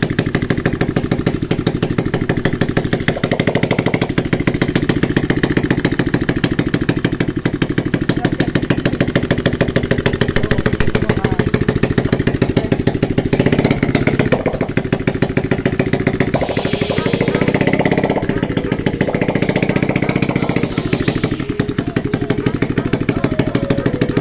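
Motorcycle engine running with no exhaust pipe fitted, the open exhaust port giving a loud, rough, fast stream of pulses. Two short hissing noises come in the second half.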